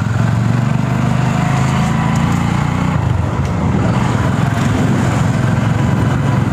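A Hero Honda Passion's small single-cylinder four-stroke engine running steadily under way as the motorcycle is ridden, with road and air noise.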